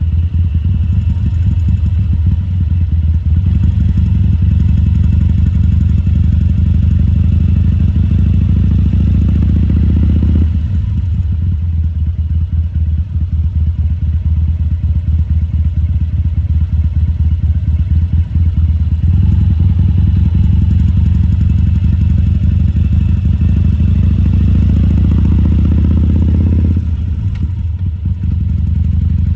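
Harley-Davidson Sportster XL1200C's 1200 cc air-cooled V-twin running, louder for two stretches of several seconds and easing back between them.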